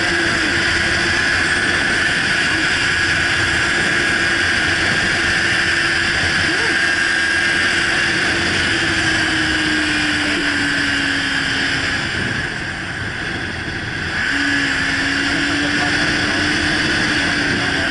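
Motorcycle riding at road speed: a steady rush of wind over the microphone with the engine's drone underneath. The engine note sinks slowly, drops away briefly about twelve seconds in, then comes back at a slightly lower pitch.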